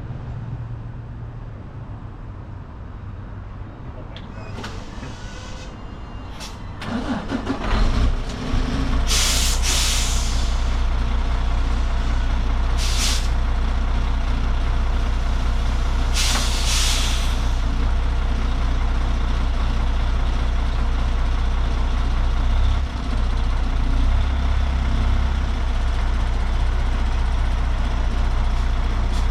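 Diesel engine of a Freightliner Columbia truck cranking and starting about seven seconds in, after a quieter steady hum with a few clicks, then idling steadily. Three sharp bursts of air hiss from the truck's air system follow, the first two within the next few seconds and a third a few seconds later.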